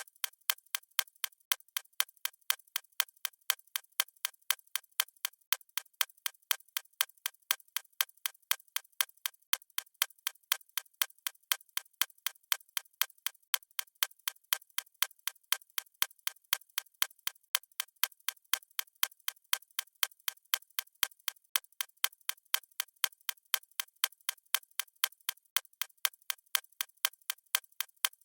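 A clock ticking steadily: an even, unbroken train of sharp, light ticks with no low end.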